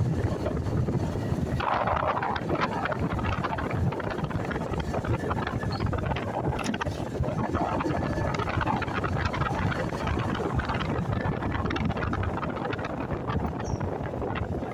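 Motorcycle riding noise: wind rushing and buffeting over the microphone over the engine and road, at a steady level.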